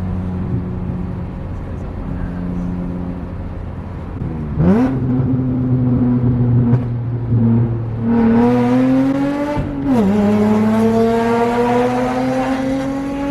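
BMW E46 M3's S54 straight-six engine under way: a steady drone at first, then accelerating, its pitch climbing with revs, dropping suddenly at an upshift about ten seconds in and climbing again.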